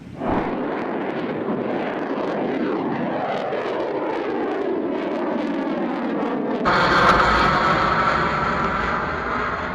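Kalibr cruise missile launch: a sudden roar of the rocket booster, its pitch falling steadily as the missile climbs away. About two-thirds through it cuts abruptly to a louder, brighter roar.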